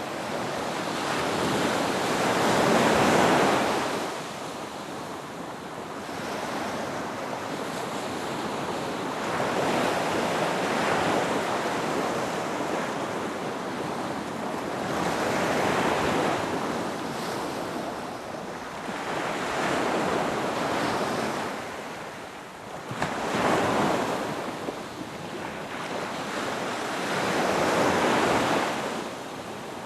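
Ocean waves breaking and washing up on a beach, a rushing noise that swells and fades about every six seconds.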